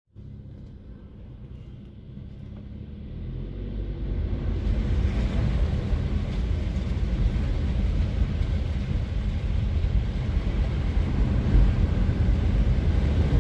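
Vehicle noise: a steady low rumble, likely a car's engine and tyres on the road, that grows louder over the first few seconds and then holds steady.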